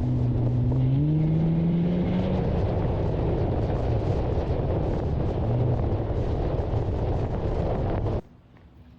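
A motor engine running under heavy noise, its low hum stepping up in pitch about a second in. The whole sound cuts off abruptly near the end.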